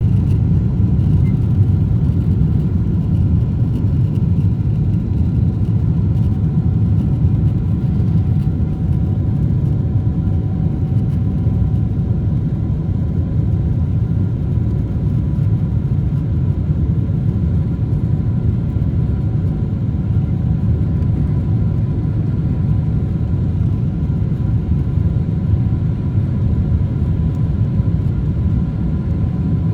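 Boeing 777-300 jet engines running steadily: a constant deep rumble with several faint steady whining tones above it.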